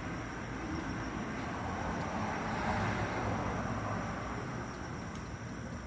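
Steady low rumbling background noise with no clear source, swelling a little about two to three seconds in and easing off toward the end.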